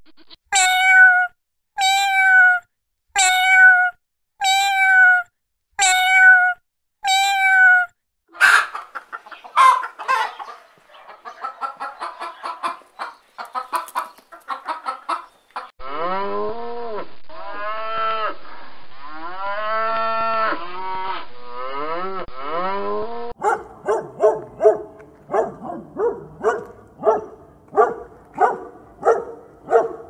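A run of farm-animal calls: seven evenly spaced high calls in the first eight seconds, then a stretch of short scattered calls. From about sixteen to twenty-three seconds a calf moos in several long calls that rise and fall in pitch, followed by quick repeated calls about two a second near the end.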